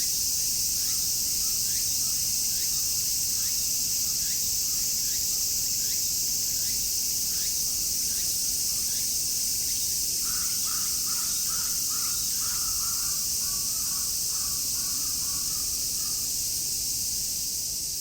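A dense chorus of cicadas shrilling steadily, with a bird repeating short falling chirps about once a second. Another bird gives a quick run of about eight calls from about ten seconds in.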